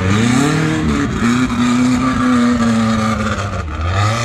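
Off-road vehicle engine revving: the pitch climbs quickly, holds high and steady for about two seconds, then drops back near the end.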